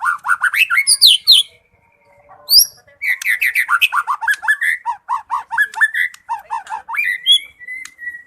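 White-rumped shama (murai batu) singing in full song: fast runs of repeated sweeping notes, broken by a short pause with a single sharp rising note about two seconds in, then ending on a steady held whistle.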